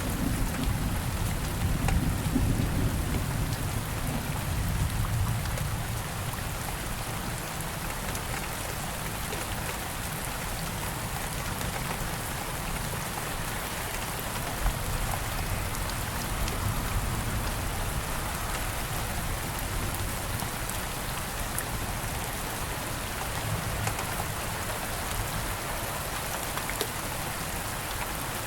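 Steady rain falling and pattering on surfaces, with fine individual drop ticks. A low rumble of thunder sounds at the start and fades away over the first several seconds.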